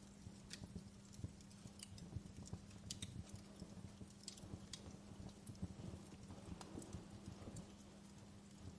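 Wood fire crackling in a fireplace: irregular sharp pops and snaps mixed with soft low knocks, over a faint steady low hum.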